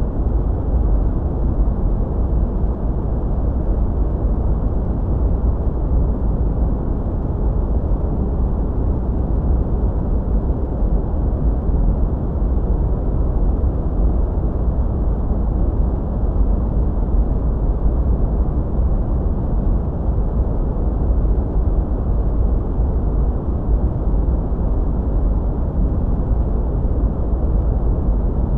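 Continuous sleep noise: a steady, deep rushing hiss weighted toward the low end with little treble, unchanging throughout.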